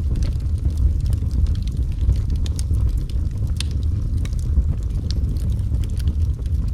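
Wood fire burning in a fireplace: a steady low rumble of the flames, with frequent small irregular crackles and pops.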